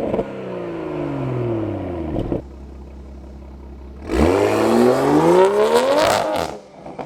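Toyota Supra engine and exhaust free-revving: the revs fall back to a steady idle, then about four seconds in a quick blip climbs sharply. Near the end the throttle closes with a few exhaust crackles.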